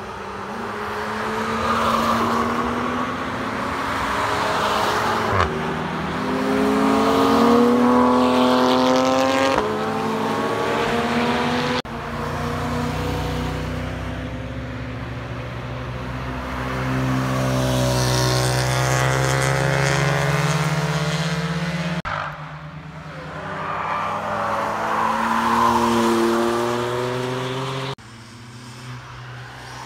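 A series of sports cars passing at speed on a wet race track, each engine note rising and falling in pitch as it goes by. The sound breaks off abruptly between passes about a third of the way in, near the middle and near the end.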